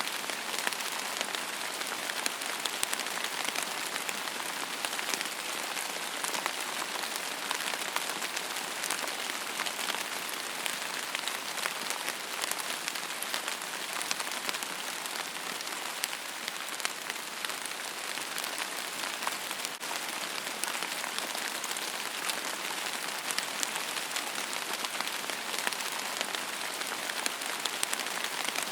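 Steady rain falling on a surface: an even hiss with many fine, close-spaced drop ticks.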